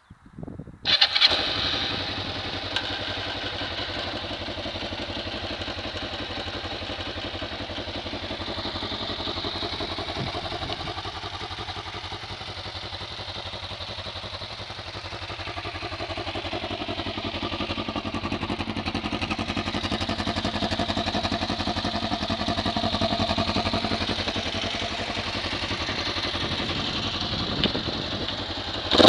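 Kawasaki KLE 500's 498 cc parallel-twin engine, fitted with a Laser Pro Duro aftermarket silencer, starting about a second in and then idling steadily, swelling slightly in the second half.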